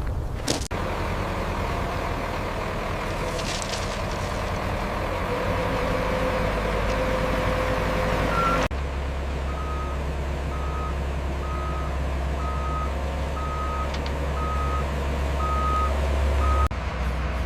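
Heavy diesel construction machinery running steadily, with the sound jumping abruptly between shots. In the second half a vehicle's reversing alarm beeps at an even pitch, about one beep every three quarters of a second.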